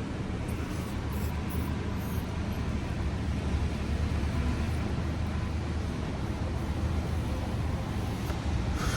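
Steady low rumble with a hum, with a few faint clicks in the first two seconds.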